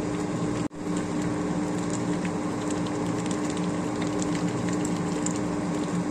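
A steady mechanical hum with a strong even tone and a hiss over it, with faint scattered ticks. It cuts out for an instant under a second in, then carries on unchanged.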